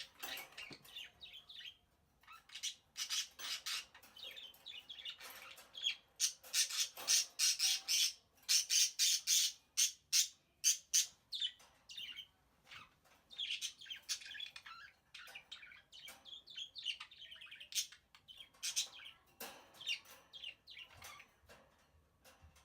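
Pet birds calling in many short, sharp, high calls that come in quick runs, loudest from about six to eleven seconds in, with brief quieter spells between.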